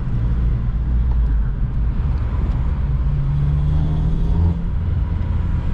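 Honda Civic Si running on its stock exhaust, heard from inside the cabin while driving, with engine and road rumble. A steadier engine note holds for a second or two past the middle.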